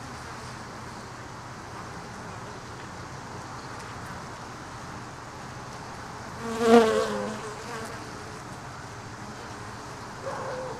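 Honey bees buzzing around an open hive. A bit past the middle, one bee flies close past the microphone with a brief, loud buzz.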